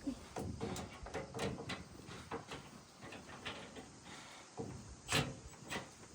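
Light, scattered knocks and clinks of tools and metal parts being handled during work on a combine, with one louder knock about five seconds in.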